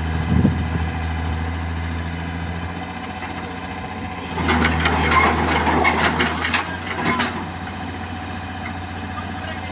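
Heavy diesel engine running steadily at idle, with a stretch of knocks and clatter for a few seconds in the middle.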